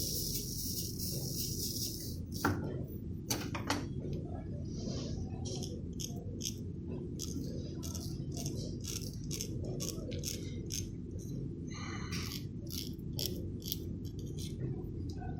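A few sharp clicks, then a long run of small, quick rattles from a container of 0.5 mm solder balls being handled to fill a reballing stencil, over a steady low hum. A high hiss stops about two seconds in.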